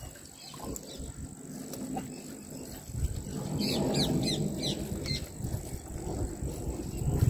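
A bird calls a quick run of about six short, falling chirps around the middle, over low background noise that grows louder about three seconds in.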